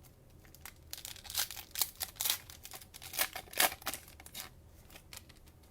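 Cellophane wrapper of a trading-card cello pack crinkling and tearing as it is opened by hand: an irregular run of sharp crackles, loudest in the middle.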